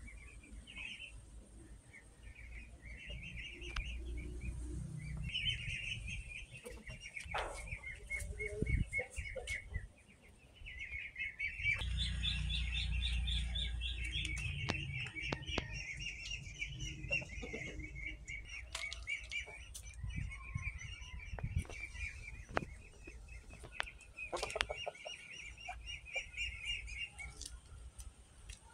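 Small birds chirping rapidly and without a break in two long runs, with a short pause about ten seconds in, over a low rumble and scattered light clicks.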